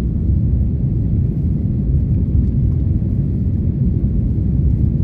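Steady low rumble inside the passenger cabin of an Airbus A330 airliner, from its engines and the airflow.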